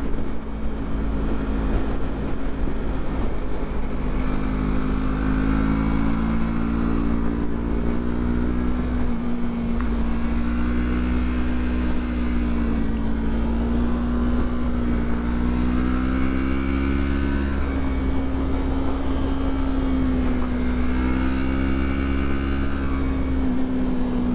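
Yamaha YZF-R3 sport bike's parallel-twin engine pulling uphill, its note rising and falling several times as the rider works the throttle. A steady low wind rumble runs underneath.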